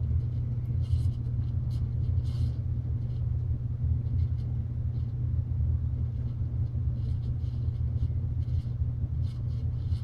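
PCI-made 42-inch bottom-mount spinner ceiling fan from 1991 running on low speed, a steady low hum and rumble mixed with a furnace running in the background, with faint irregular clicks. The fan has pretty bad bearing noise.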